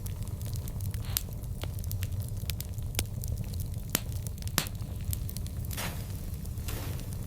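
Burning wood fire crackling, with frequent sharp pops, several louder ones, and two short hisses late on, over a steady low rumble.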